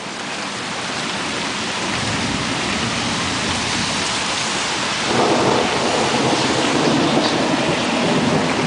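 Steady heavy rain during a thunderstorm, with a roll of thunder that swells louder about five seconds in.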